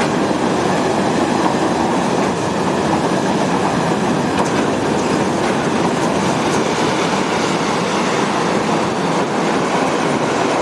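A freight train of double-deck car-carrier wagons rolling past close by: a loud, steady rush of wheels on rail, with faint clicks as the wheels cross rail joints.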